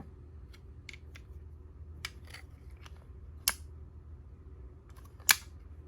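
A handful of sharp plastic clicks and taps from the toy Progrise keys and their packaging being handled, the loudest two about three and a half and five seconds in, over a low steady hum.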